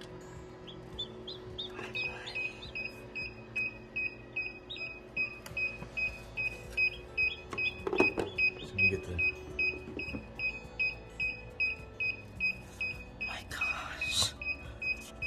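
A newly hatched chick gives a few peeps, then an electronic beeper starts sounding short beeps at one steady pitch, about two a second, with brief rustles of handling.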